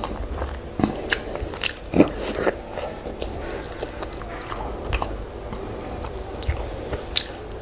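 A person chewing and biting a mouthful of yam with owo stew close to the microphone: irregular wet mouth clicks and chewing sounds.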